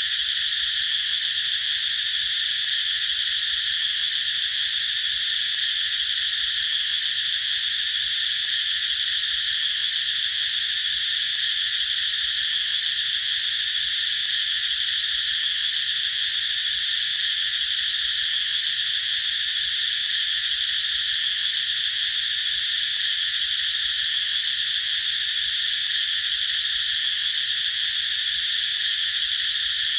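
Cicadas singing as a continuous high-pitched drone, strongest around 3–4 kHz and unbroken throughout.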